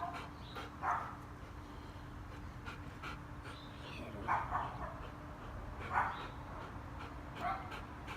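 A dog panting, a few short soft breaths spaced irregularly.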